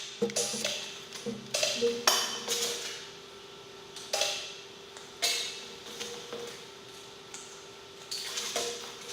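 Scattered metal-on-metal clinks and scrapes, several strokes a few seconds apart, over a steady hum.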